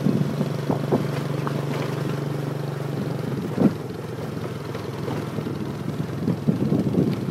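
Motorbike engine running on the road, its steady note dropping about three seconds in, with a brief knock soon after.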